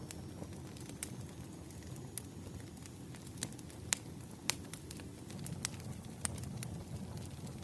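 Campfire crackling, with sharp pops scattered through it, the two loudest a little past the middle, over a low steady rumble of the burning fire.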